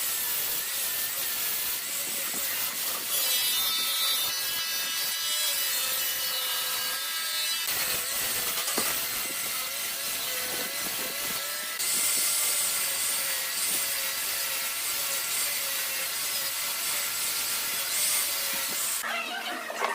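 A power tool working wood, its motor note wavering up and down as it meets the wood. The sound changes character near the middle and stops shortly before the end.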